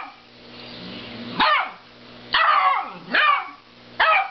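Dog barking: four barks roughly a second apart.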